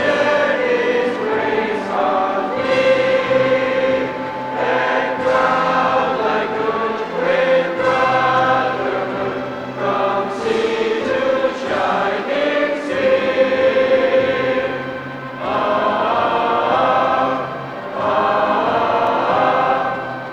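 A choir singing, holding long notes with several voices together.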